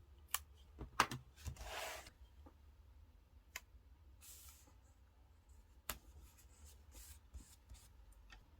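Paper and stickers handled on a desk: scattered small clicks and taps, with a short rustle of paper about a second and a half in and a fainter one about four seconds in.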